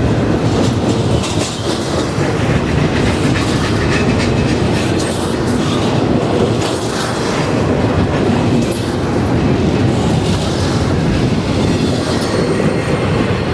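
Norfolk Southern freight train rolling past, a steady rumble with steel wheels clicking over rail joints and a few brief squeals from the wheels.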